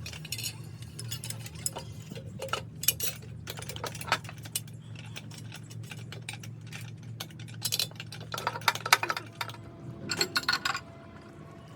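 Metal tools and parts clinking and tapping on metal in a workshop, irregular at first and in quicker clusters near the end, over a steady low hum.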